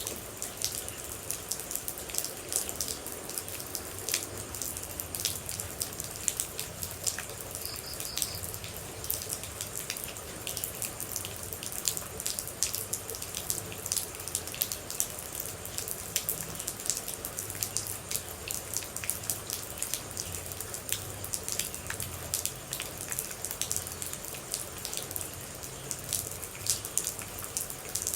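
Steady rain with many individual water droplets pattering and dripping irregularly onto a surface.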